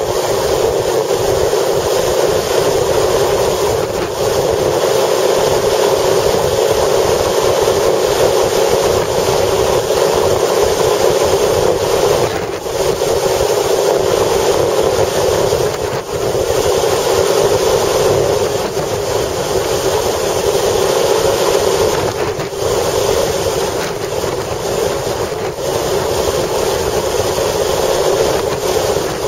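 Steady, loud noise of a vehicle travelling in strong wind: wind noise over the running sound, easing briefly a few times.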